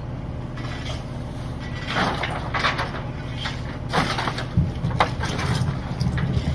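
Rear-loader garbage truck's packer crushing bulky flood debris: wood and household junk cracking and crunching, with several sharp cracks and heavier thumps over the truck's steady engine.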